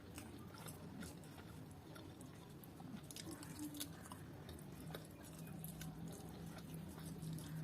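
Close-up chewing and mouth sounds of someone eating rice with curry and fried vegetables: soft wet smacks and small sharp clicks, irregularly spaced.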